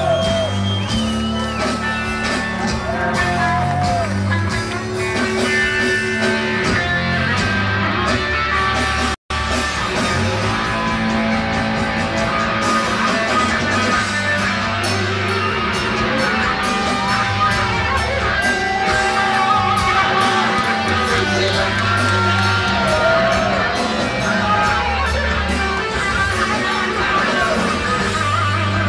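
A rock band playing a power ballad live, with electric guitar to the fore, captured from within the stadium audience. The sound cuts out for an instant about nine seconds in.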